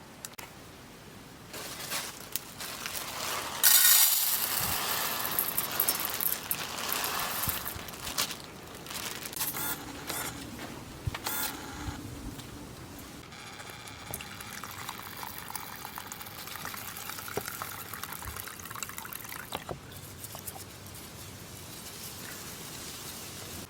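Liquid, most likely water for the soup, being poured into a pot with a few knocks of the vessel. It then gives way to a quieter steady hiss.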